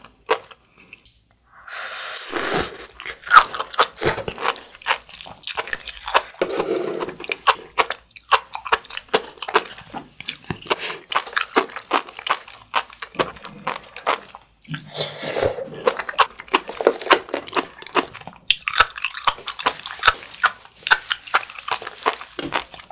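Close-miked chewing of sea grapes (umibudo seaweed): a rapid, irregular run of small crisp pops and clicks as the beads burst in the mouth, busiest in several spells.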